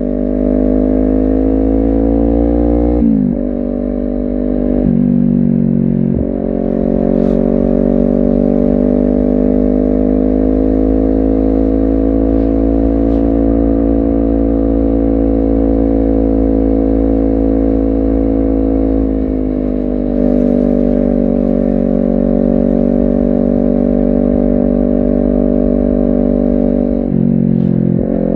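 Honda CBR250RR's parallel-twin engine and exhaust under way, pulling with a few quick pitch drops at gear changes early on and near the end, holding a steady note through a long stretch in the middle.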